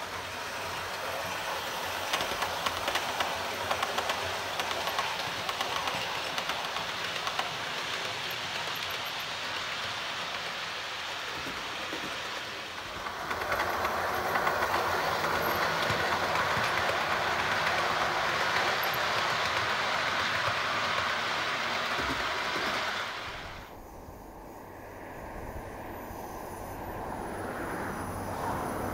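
A train running on rails with a clickety-clack, getting louder about halfway through. It drops away suddenly about three-quarters of the way in, then builds again near the end as a train approaches.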